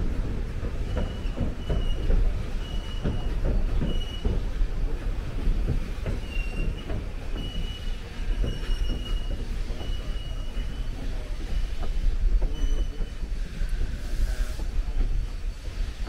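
Narrow-gauge train rolling past with a heavy low rumble and irregular clacking of wheels over the rail. A thin, high wheel-flange squeal comes and goes repeatedly.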